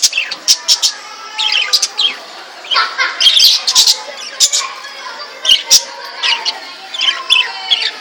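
Pet budgerigars chirping and squawking, short sharp calls in quick irregular clusters.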